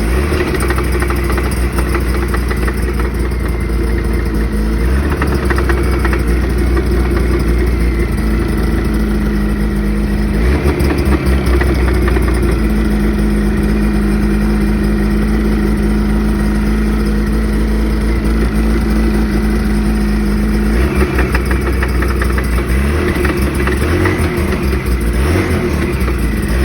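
Ski-Doo NEO+ snowmobile engine running, its speed changing a few times, with a knock that the owner takes for engine knocking.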